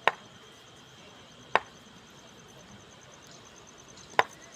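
Three sharp clicks or knocks, unevenly spaced, over a steady high insect chirring.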